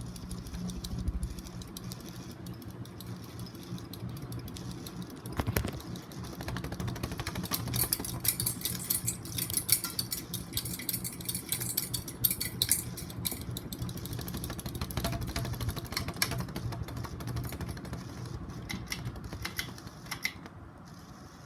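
SMC Emperor ceiling fan running with a steady motor hum, overlaid by fast, irregular light clicking and rattling.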